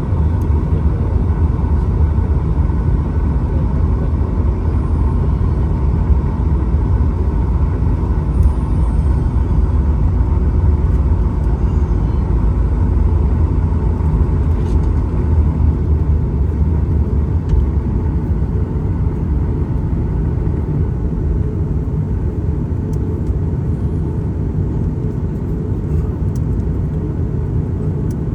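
Steady low rumble of a jet airliner heard from inside the passenger cabin, with a faint steady engine whine above it; it eases slightly toward the end.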